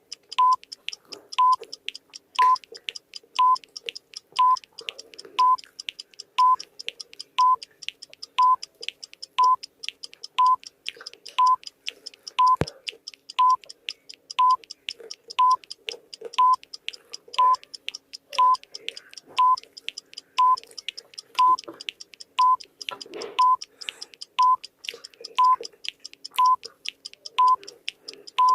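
Countdown timer beeping once a second, a short high beep each time, with faint ticks between.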